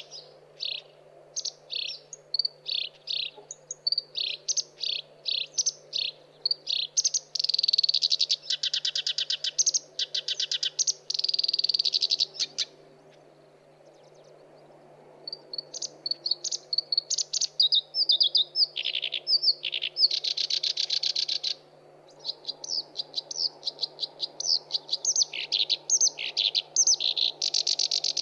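Black-browed reed warbler singing: fast runs of short, harsh chattering notes and buzzy trills, broken by a pause of about two seconds midway.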